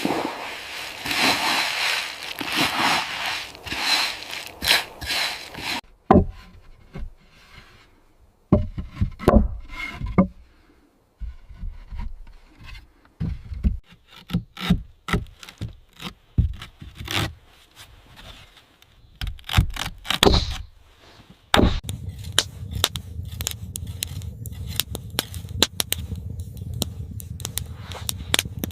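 Wood being worked by hand: dense scraping at first, then a run of separate knocks and taps. Near the end a steady low hum comes in under quick light clicks.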